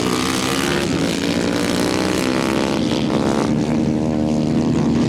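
A 125 cc engine running steadily, its pitch wavering slightly around the middle.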